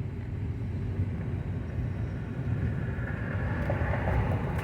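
Steady road and engine rumble heard inside a moving car's cabin, with a few faint short higher-pitched sounds near the end.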